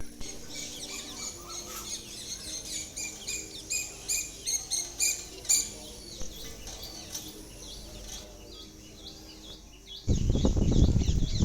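Many small birds chirping and twittering in quick, high, repeated notes. About ten seconds in, a sudden loud, rough low rustling noise cuts in under the chirps.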